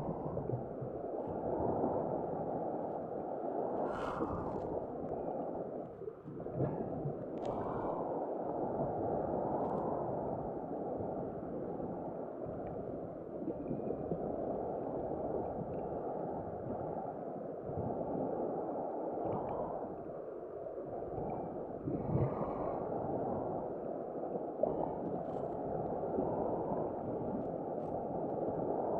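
Muffled sea water sloshing and surging in slow swells, with a few brief clicks.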